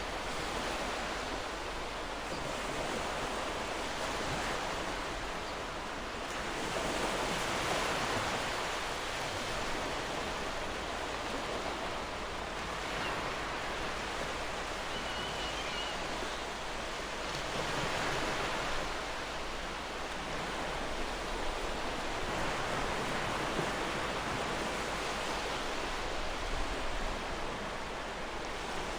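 Gentle ocean waves washing on a shore: a steady surf noise that swells and eases every several seconds. A faint, short bird chirp sounds about halfway through.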